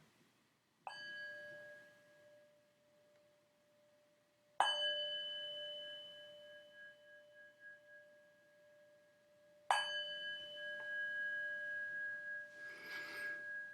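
A ringing metal chime, such as a meditation bowl or bell, struck three times about four to five seconds apart. Each strike rings on with a clear, slowly fading tone. A soft rustle comes near the end.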